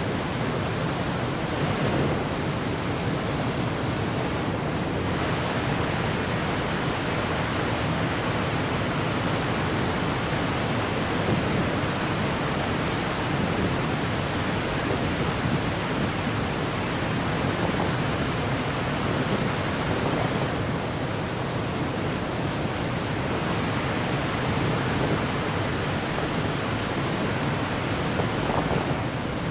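Ryumon Falls (Ryumon no Taki) waterfall pouring: a steady, even rush of falling water.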